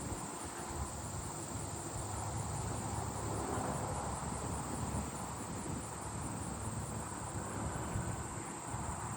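Short-winged meadow katydids singing: a steady, high-pitched insect buzz.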